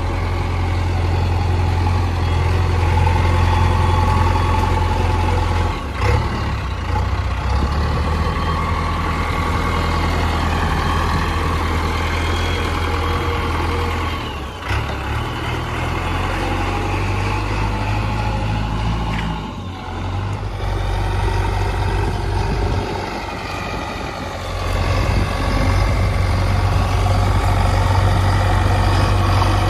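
Heavy diesel engine of a backhoe loader or tractor running loud and steady under changing load. Its note and level shift several times, dipping briefly about 6, 14 and 20 seconds in and again near 23 seconds.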